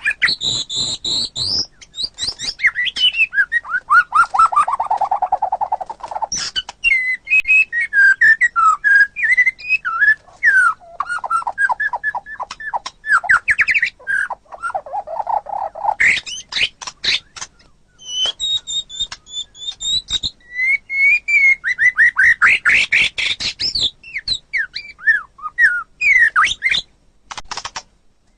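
White-rumped shama (murai batu) singing a long, varied song of whistled phrases, fast trills and quick runs of sharp notes, with a few short pauses.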